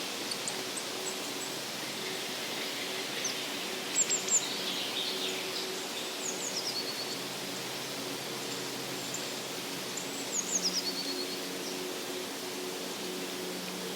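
Songbirds singing in a forest in early spring: short, high song phrases that slide downward and end in a quick trill, loudest about four seconds in and again about ten seconds in. Under them is a steady background hiss with a faint low hum.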